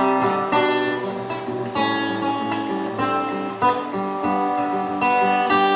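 Acoustic guitar playing alone, with plucked notes following one another without singing.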